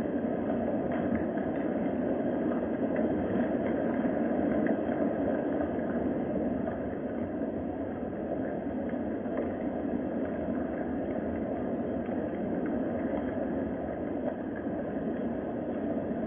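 Steady rain, an even rushing noise with no breaks.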